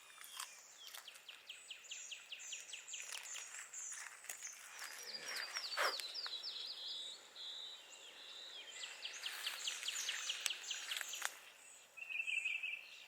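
Birds singing outdoors: several runs of fast, evenly repeated high chirps, about eight a second, with a short buzzy trill near the end.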